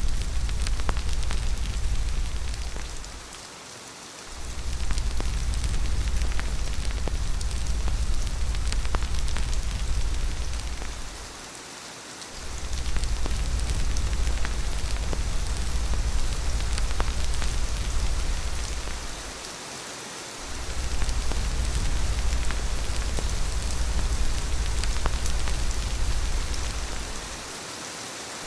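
Steady heavy rain hissing, with many small drop ticks, over a deep low rumble that fades out briefly about every eight seconds.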